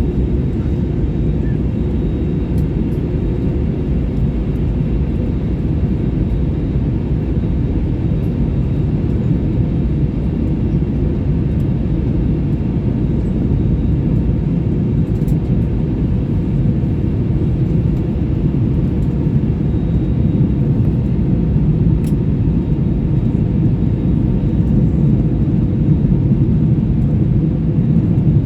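Passenger jet cabin noise: the steady low roar of the engines and rushing air heard from inside the cabin, growing slightly louder toward the end.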